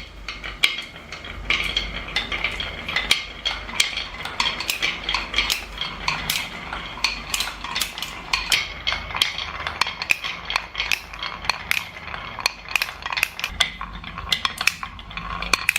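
Many marbles rolling and clattering along a marble run track: a continuous rolling rumble dotted with rapid, irregular clicks as they knock against each other and the track.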